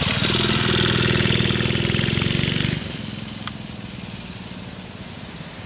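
Minibike's small engine running steadily under throttle, loud at first, then dropping to a fainter drone about three seconds in.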